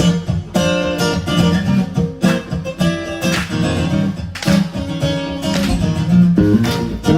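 Guitar strumming chords in a song intro, each chord struck sharply and left to ring before the next.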